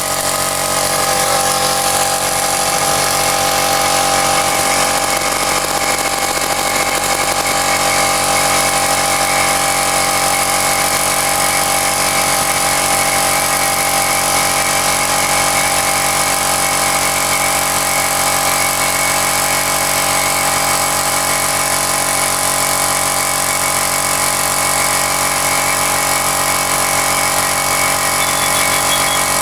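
Rigo RT550 machine's 1500-watt electric motor and pump running steadily under load, an even mechanical hum with a fast pulsing beneath it.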